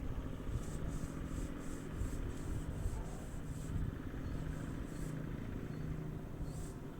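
A motor engine runs with a steady hum, over an uneven low rumble.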